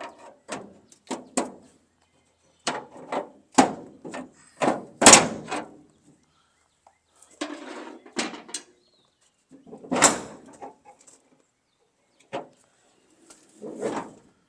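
Irregular metal knocks and clanks from a steel pickup tailgate being forced onto its hinges. The bangs are loudest about five seconds in, with a brief scrape about seven and a half seconds in.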